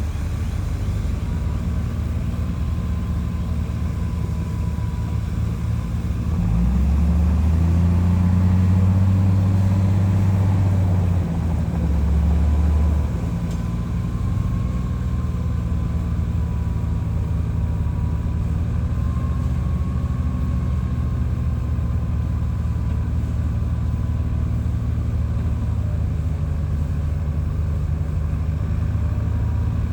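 Heavy diesel engine of a bulldozer running steadily, getting louder and deeper for about six seconds in the middle before settling back, with a faint wavering whine above it.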